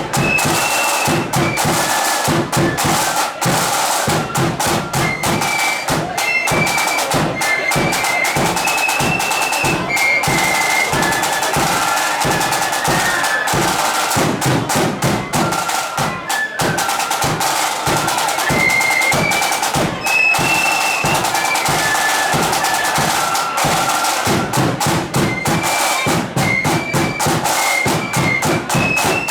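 Marching flute band playing a tune: a high flute melody over steady, rapid snare drumming and bass drum beats.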